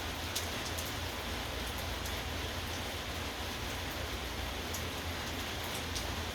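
Steady rain falling, an even hiss with a few sharper drops ticking now and then.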